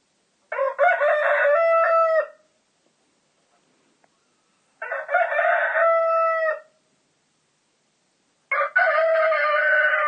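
Rooster crowing, cock-a-doodle-doo, three times, each crow lasting about two seconds with silence between them. The third crow starts near the end.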